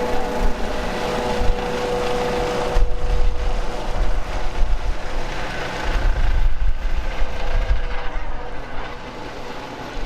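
Helicopter taking off: a steady turbine whine, then from about three seconds in a loud low rotor beat that dips briefly near the end before coming back.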